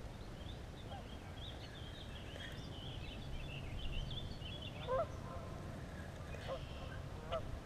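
Birds calling: a run of quick high chirps for the first few seconds, then a few short, lower calls spaced about a second apart in the second half.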